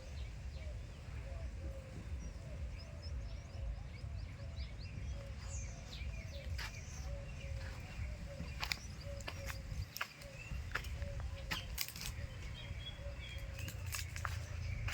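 Birds chirping outdoors, with short sharp calls scattered through and a faint repeated warbling call underneath, over a steady low rumble like wind on the microphone.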